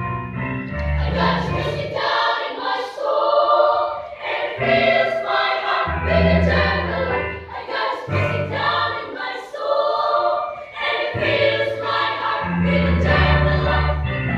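Children's choir singing a Christian choral piece, the voices together in phrases that break every second or two.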